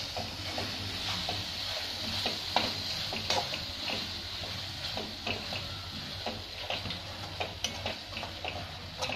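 Tomato masala frying and sizzling in a metal kadai, stirred with a spatula that scrapes and taps against the pan in frequent short, irregular clicks. The tomatoes are being fried down until soft.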